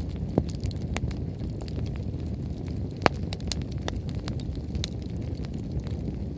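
Wood bonfire burning hard: frequent sharp crackles and pops over a steady low rumble, with one loud pop about three seconds in.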